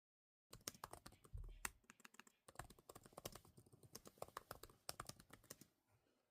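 Fast typing on a computer keyboard: a dense, rapid run of keystroke clicks that starts about half a second in and thins out near the end.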